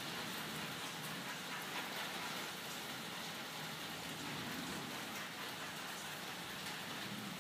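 Steady rain falling during a thunderstorm: an even hiss with faint scattered drop ticks, and no thunder.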